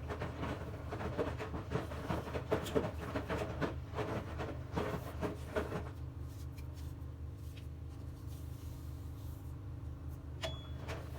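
Dense small clicks and rustling of objects being handled over a steady low hum, thinning out about six seconds in; a short high tone sounds near the end.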